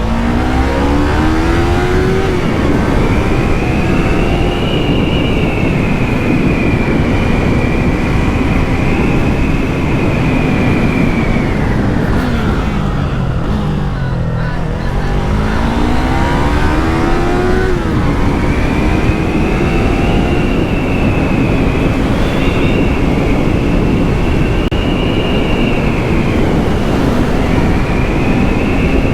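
Yamaha MT-03's 321 cc parallel-twin through its stock exhaust, ridden hard: the revs climb over the first couple of seconds and then hold high. About twelve seconds in they fall away, climb again for a few seconds and then hold steady, over a constant rush of wind.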